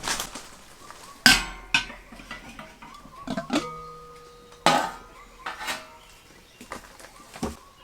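Dishes and cooking utensils clattering and knocking together in a string of sharp knocks. A few strikes leave a short metallic ring, and the loudest come about a second in and near the middle.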